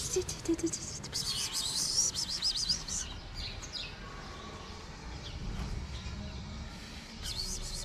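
Small birds chirping and twittering, a quick busy run of high chirps for about two seconds, then a few scattered chirps and another short burst near the end, over a low steady outdoor rumble.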